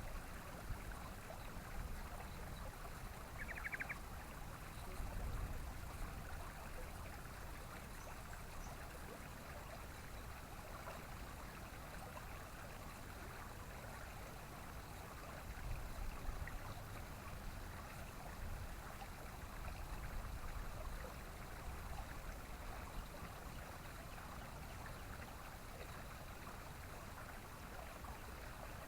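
Steady rushing of running water, like a small stream, with a low rumble that swells now and then. A single brief high chirp comes about three and a half seconds in.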